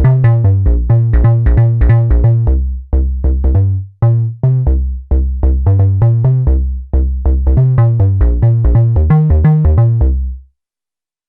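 Korg monologue monophonic analog synthesizer playing a factory preset: a sequenced bass line of short, plucked, decaying notes, about four a second, jumping between pitches. It stops abruptly near the end.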